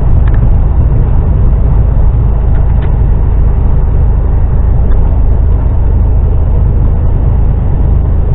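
HGV lorry on the move: a steady, loud low drone of its diesel engine and road noise, unchanging throughout.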